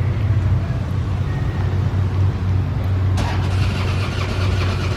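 An engine running steadily with a low, even rumble; about three seconds in, a brighter, higher-pitched noise joins it.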